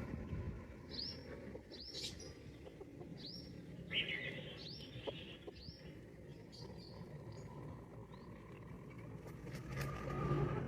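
Small bird chirping: short, high chirps repeat about once a second for the first six seconds or so, over a low, steady background rumble.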